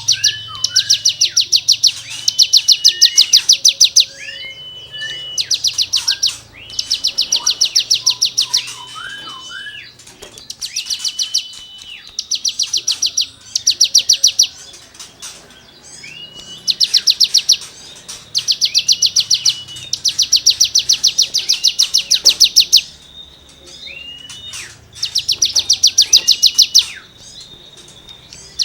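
A cigun songbird singing in repeated bursts of a fast, rasping rattle, each lasting a second or two, broken by short whistled notes that rise, hold and drop.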